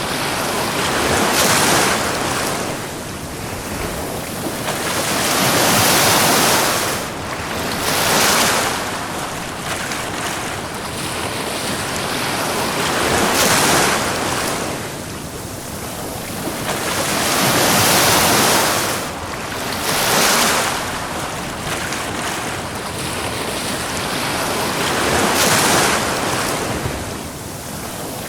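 Ocean surf breaking and washing up a beach, the rushing noise swelling and falling away in surges every few seconds.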